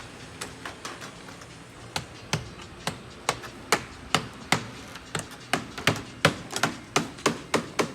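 A series of short sharp taps or knocks, irregularly spaced at about two to four a second, coming faster and louder in the second half.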